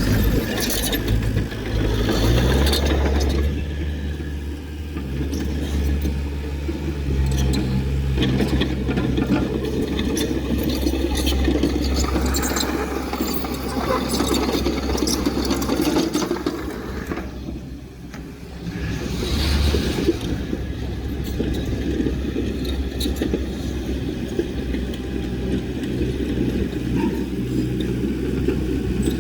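Diesel engine of heavy earthmoving equipment running steadily, with metal rattles and clanks. Its note shifts about two seconds in, and it eases off briefly about two-thirds of the way through before picking up again.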